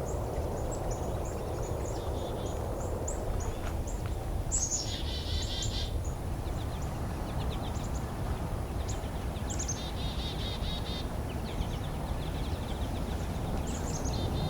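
A flock of American goldfinches calling: many short high call notes and twittering runs, with two denser chattering bursts about a third and two-thirds of the way through. A steady low rumble runs underneath.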